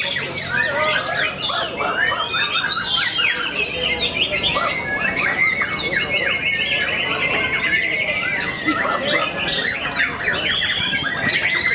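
Many caged songbirds singing at once in a songbird contest: a dense, continuous mix of chirps, whistles and fast trills, with one long rapid trill standing out from about four to eight seconds in.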